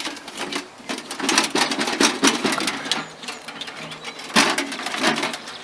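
Rapid scraping and crunching of digging: soil and campfire ash being worked over with a hand tool to bury the ash. There are louder clusters of strokes in the middle and about four and a half seconds in.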